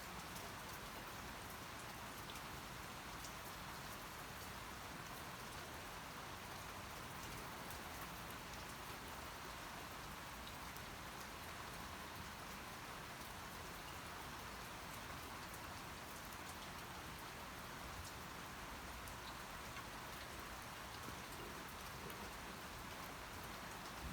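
Steady rain falling, an even hiss of drops with faint scattered patters on a surface.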